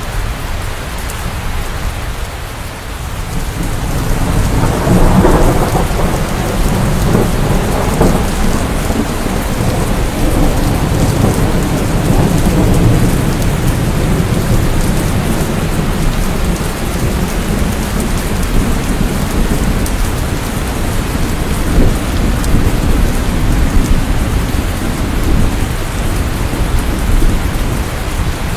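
Steady rain with a deep roll of thunder swelling about four seconds in and rumbling on beneath the rain.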